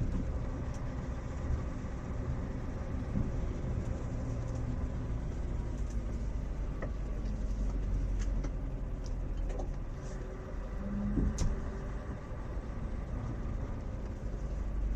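Scania 580 S truck's V8 diesel engine running steadily at low speed, heard from inside the cab, with a few faint clicks and rattles.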